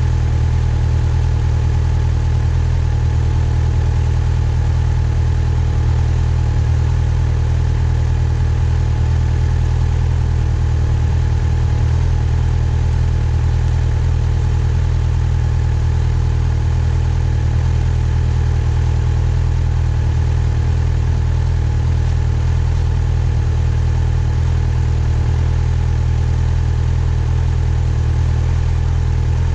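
Yamaha FZ6R's inline-four engine idling, dead steady with no revving.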